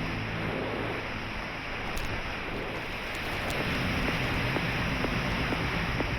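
Strong wind buffeting the microphone, a steady rushing noise.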